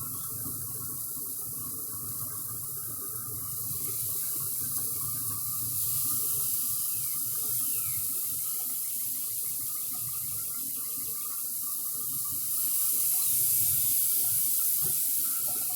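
Steaks sizzling on a hot grill as leftover marinade juice is poured over them, a steady hiss that grows louder about four seconds in and again near the end.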